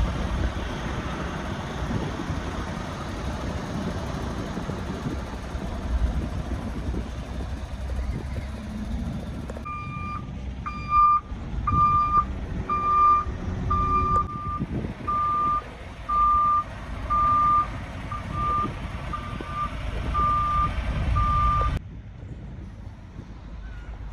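Truck engine running, then a truck's reversing alarm beeping about once a second for around twelve seconds, one steady high tone per beep over the engine.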